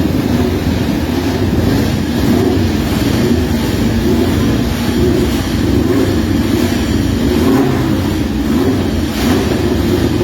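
Motorcycle engines running, a loud, steady mechanical din with no single engine standing out.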